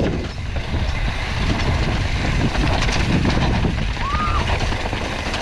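Mountain bike riding down a rough dirt trail: steady rumble of tyres and wind on the microphone with rattling clatter from the bike, and a short squeal about four seconds in.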